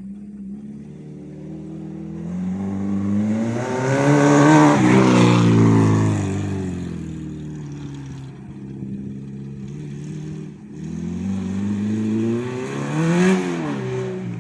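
Acura RSX's four-cylinder engine revving as the car drives around a dirt track. Its pitch and loudness climb to a peak about five seconds in, then fall away, and rise again to a second peak near the end, as the car comes past and moves off.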